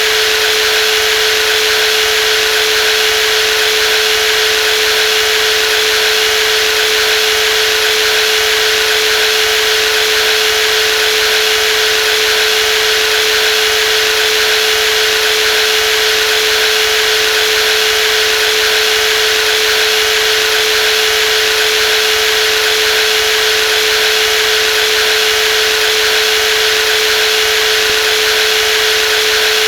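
Brushless jigsaw motor running steadily at constant speed, with a steady mid-pitched whine over a hissing mechanical noise.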